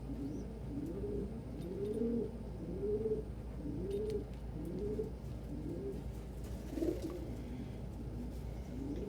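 Domestic pigeons cooing over and over: a steady run of low, rising-and-falling coos, about one a second.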